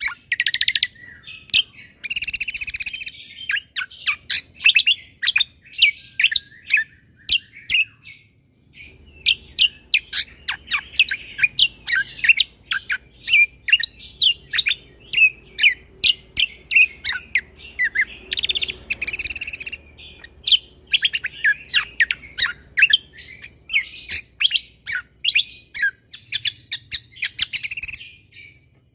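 A cucak kombo (kecial kombo) songbird singing a long, rapid run of sharp chirps and whistled notes, many of them falling steeply in pitch and packed closely together, with a brief pause about a quarter of the way in.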